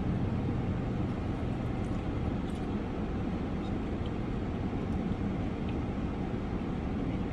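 Steady low rumble of a car idling, heard from inside the cabin, with a few faint small clicks.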